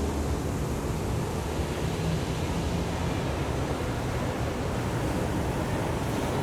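Ocean surf washing onto the beach, a steady rushing wash with wind buffeting the microphone.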